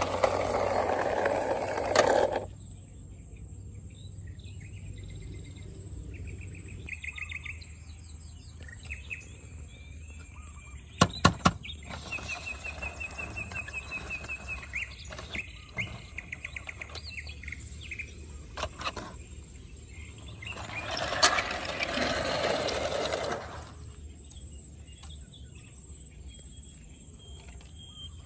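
Small birds chirping in short repeated trills over a thin steady high tone. A loud hissing noise cuts off about two seconds in, a few sharp clicks come near the middle, and a rushing hiss swells twice more later on.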